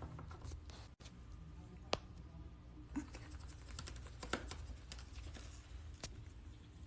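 Faint, scattered small clicks and ticks over quiet room tone, with a few sharper ones about two, three, four and six seconds in.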